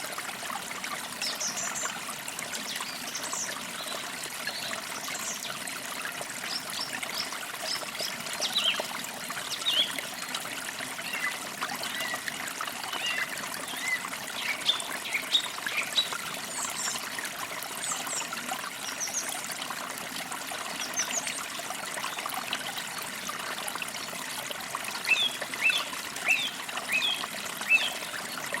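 Forest creek trickling steadily, with small birds chirping on and off over it and a run of quick chirps near the end.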